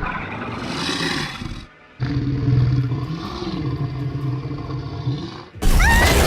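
A monster sound effect: two roars, the first rough and hissing, the second longer with a deep growl that rises and falls. About five and a half seconds in, a sudden, much louder burst cuts in, with shrill sweeping cries over it.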